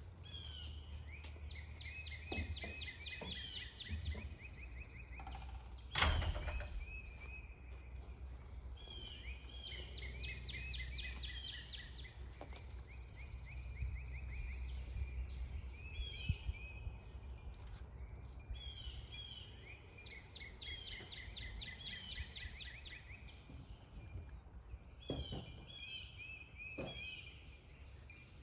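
A songbird singing short phrases of quick repeated notes, one phrase every few seconds, over a low rumble, with a single sharp knock about six seconds in.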